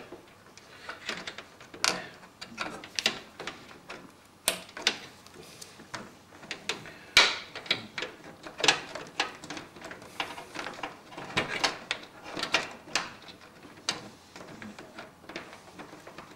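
Irregular clicks, taps and scrapes of SATA data cables being handled, routed and plugged in inside a PC case, with one sharper click about seven seconds in.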